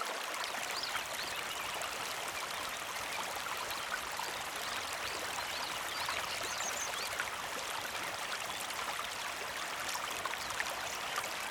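Small mountain creek flowing and trickling steadily.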